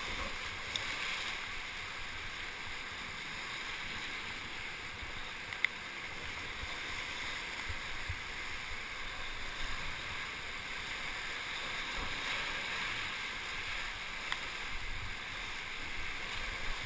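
Steady rush of the Kaweah River's whitewater around a paddle raft, an even hiss, with one sharp click a little under six seconds in.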